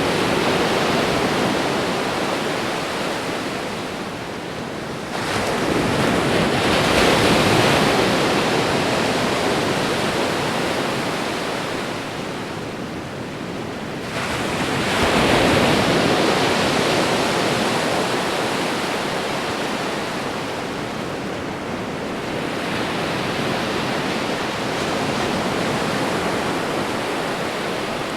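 Ocean waves breaking and washing up the shore, a continuous hiss of surf that swells twice, about 6 and 15 seconds in, and then slowly ebbs.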